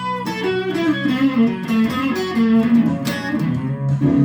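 Electric guitar playing a slow blues fill of single notes, some bent in pitch, over sustained low notes.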